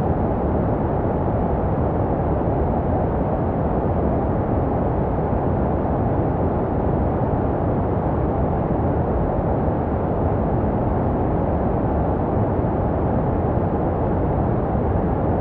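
Steady baby-sleep white noise: an even, deep rush with no rhythm and no change, made to resemble the sounds a baby hears in the womb.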